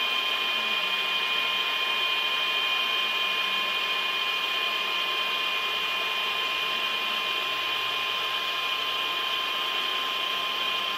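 A machine running steadily: an even noise with several constant high-pitched whine tones over it.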